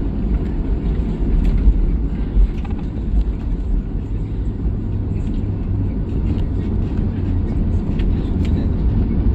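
Airliner cabin noise heard from a passenger seat: a steady, low drone of the jet engines and airflow.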